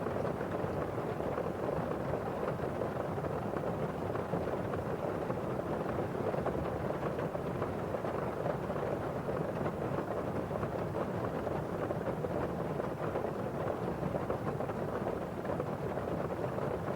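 Steady rain: drops on a window pane and the rush of rain falling outside, an even sound with no single event standing out.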